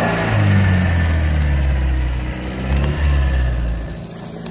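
Off-road 4x4's engine running hard under load as it climbs a slippery wet clay slope, then dropping away near the end.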